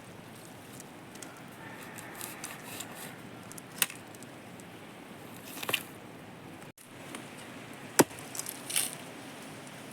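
A few sharp clicks or knocks over a steady background hiss, the loudest about eight seconds in.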